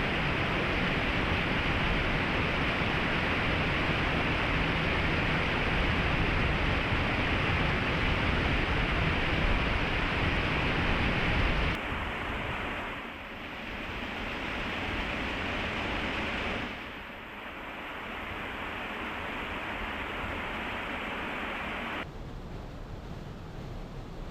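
Waterfall rushing steadily, an even roar of falling water; it drops suddenly to a quieter, thinner rush about halfway through and shifts again twice more, at about 17 seconds and near the end.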